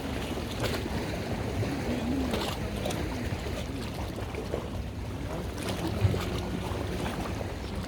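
Steady low rumble of a boat's engine, with a short knock about six seconds in.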